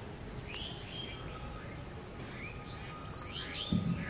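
Birds chirping, several short rising and falling calls, over a steady outdoor background hiss with a thin, steady high-pitched whine. A brief low thump near the end.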